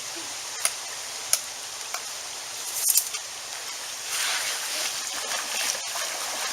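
Small stream running steadily, with a few sharp clicks along the way. The water noise grows louder about four seconds in.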